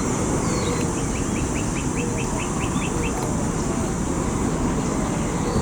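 A bird calling a quick run of about ten short rising notes, over a steady low background rumble.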